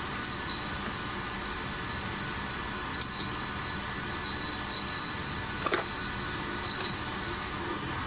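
A machine running steadily with a faint high whine, with short sharp clinks about three seconds in, a pair near the middle and one more near the end.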